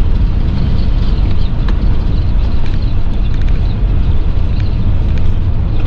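Steady, loud low rumble of a Class C motorhome driving on a bumpy road in strong wind, with scattered light clicks and rattles.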